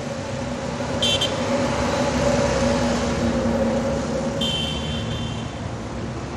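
Road traffic noise: a steady vehicle engine and tyre rush, with two short high-pitched beeps, the first about a second in and a longer one about four and a half seconds in.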